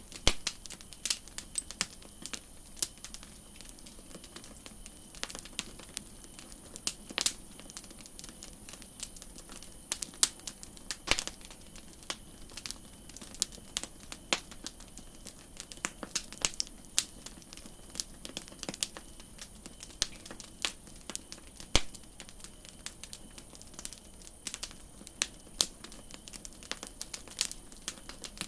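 Campfire crackling: irregular sharp pops and snaps, several a second, some much louder than others, over a faint steady hiss.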